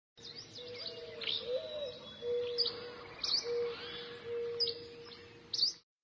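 Birds chirping: many short, sharp high chirps over a low, steady whistled tone, all cutting off suddenly near the end.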